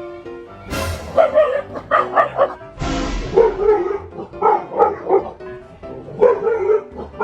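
A dog barking repeatedly, about two barks a second in short runs, over background music, with two brief rushes of hiss about one and three seconds in.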